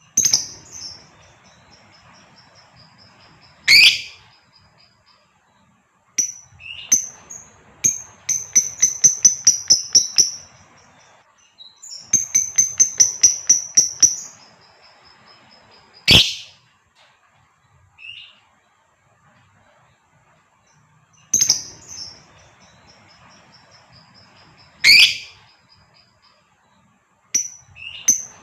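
Female lovebird calling: high-pitched chirps broken by a few sharp, loud shrieks, and two runs of fast repeated notes, about seven a second, in the middle stretch.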